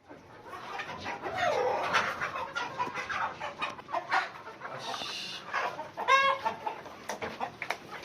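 A flock of laying hens clucking, many short overlapping calls, with one louder quick run of notes about six seconds in.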